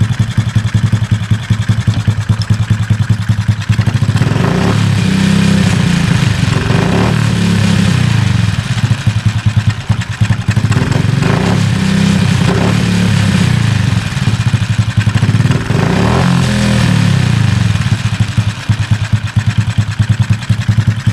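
Kayo pit bike's small single-cylinder four-stroke engine idling, then blipped several times, each rev rising and falling back, before it settles to idle again near the end. It is running on its freshly overhauled and adjusted carburettor, the throttle response being tried out.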